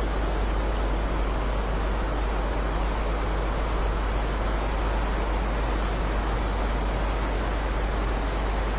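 Steady heavy rain, an even hiss with a strong low rumble and no changes.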